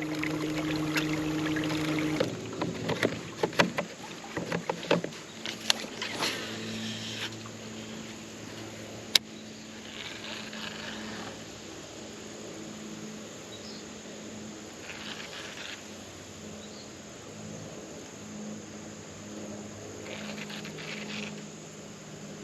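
Small boat's electric trolling motor humming steadily as it pushes the boat along, its pitch dropping a little about two seconds in. A series of clicks and knocks sounds over it during the first several seconds.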